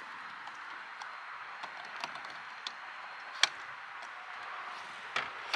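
A few scattered sharp clicks and taps over a steady outdoor hiss, the loudest about three and a half seconds in.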